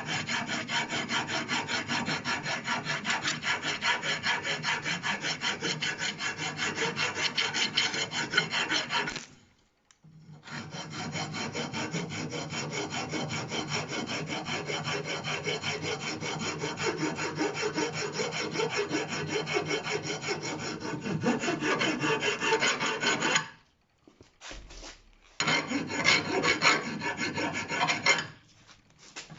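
Hand file rasping back and forth on a brake pad, cutting a chamfer on its edges to stop the pedal squeal. The strokes are rapid and steady, with brief breaks about ten seconds in and again near the end.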